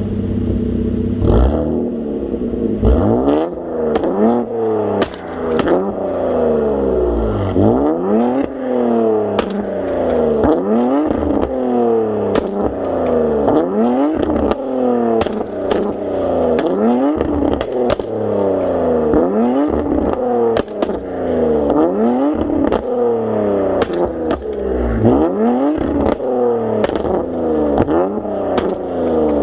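Infiniti Q50 Red Sport 400's twin-turbo 3.0 V6, running Stage 2 Pure Turbos, catless downpipes and a Motordyne Shockwave catback exhaust, free-revved over and over, each rev rising and falling back. Sharp pops and crackles come from the exhaust between the revs.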